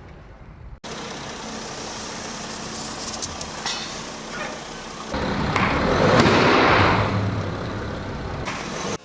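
Car rolling slowly with its engine running and tyres pressing over objects, with a few short cracks about three to four seconds in. A louder rushing crunch swells from about five seconds in and eases off near the end.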